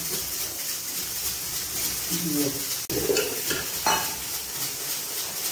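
Ground onion paste sizzling as it fries in a metal pot, stirred with a steel spoon that clinks once against the pot about four seconds in.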